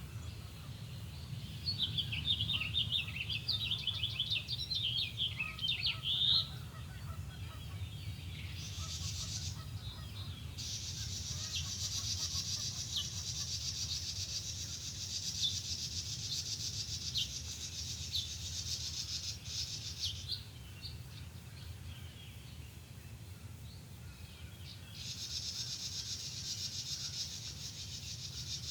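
A songbird sings a rapid, jumbled run of high notes for about five seconds. Then a steady high buzzing trill sets in, runs for about ten seconds, stops, and comes back near the end. A low steady rumble lies underneath throughout.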